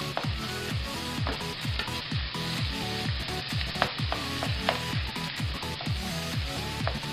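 Corned beef with garlic and onion sizzling in hot oil in a nonstick pan, stirred and scraped with a spatula, under background music with a steady beat.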